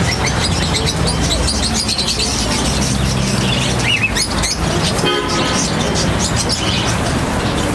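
Small cage birds chirping over a steady rumble of street traffic.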